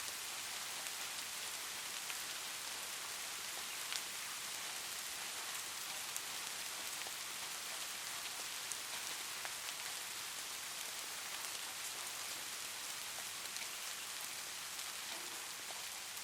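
Steady rain falling, an even hiss with scattered individual drops ticking, the sharpest about four seconds in.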